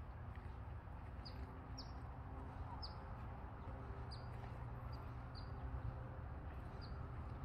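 A bird giving short, high chirps, each falling quickly in pitch, about seven of them at uneven intervals, over a steady low rumble.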